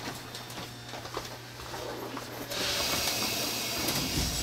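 Electric train standing at the platform: a steady low electrical hum with a few faint clicks, then about two and a half seconds in a steady air hiss starts and carries on.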